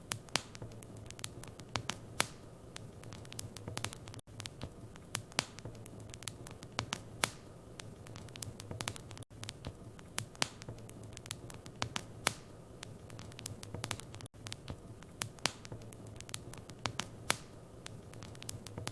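Wood fire crackling in a fireplace: irregular sharp pops and snaps over a low steady hum, with a brief dropout about every five seconds.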